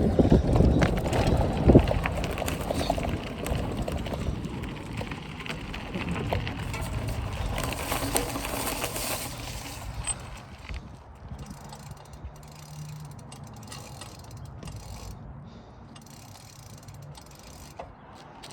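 Cheap mountain bike being ridden, its chain rattling, with wind rumble on the microphone that is loudest in the first two seconds and drops away after about ten seconds.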